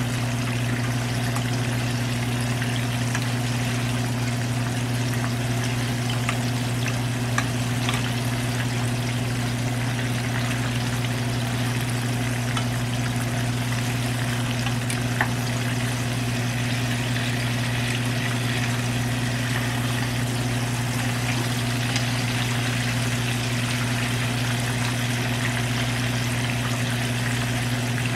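Chicken thighs frying in a pan of hot oil: a steady sizzle with a few small pops, over a steady low hum.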